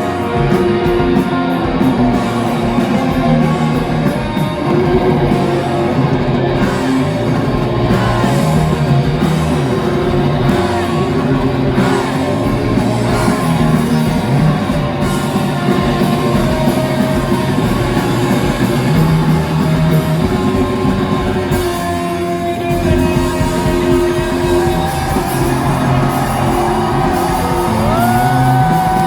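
Rock band playing live at full volume, heard from within the audience through a phone's microphone. Near the end a note slides up and is held over the band.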